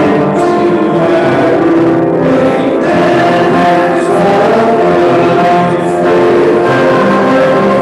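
Congregation singing a hymn together, holding long notes.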